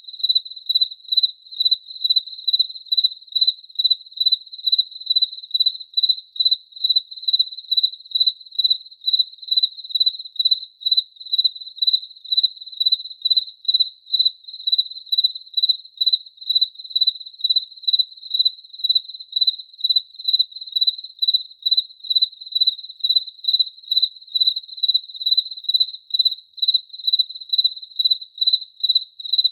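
A cricket chirping: high-pitched pulsed chirps repeating in a steady, even rhythm of about two a second.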